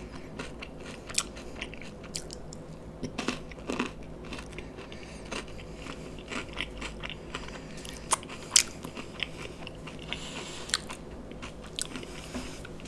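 A person chewing a small piece of coconut sweet close to the microphone: scattered soft crunches, bites and wet mouth clicks.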